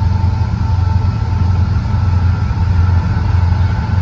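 Steady low rumble of a diesel-hauled empty coal train rolling past, with a faint steady high whine above it.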